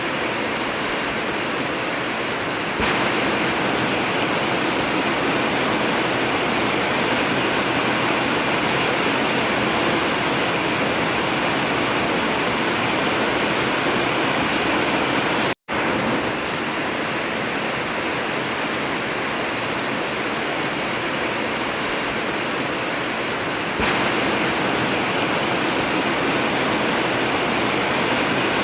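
Steady heavy rain drumming on an old tin roof. It cuts out completely for a split second about halfway through.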